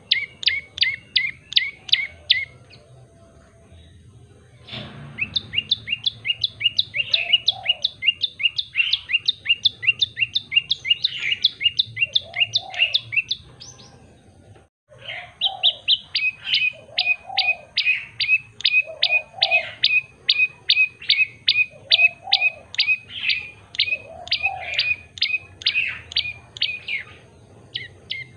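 Tailorbird singing long runs of sharp, evenly repeated chirps, about four a second, pausing briefly near the start and again about halfway through. Fainter, lower warbling notes sound underneath the louder notes.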